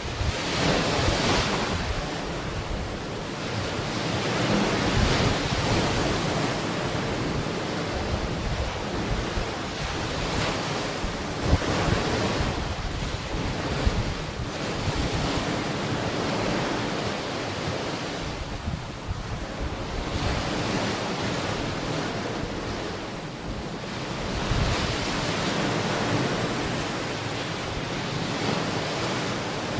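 Ocean waves breaking and washing onto a beach, swelling and easing every few seconds, with wind buffeting the microphone.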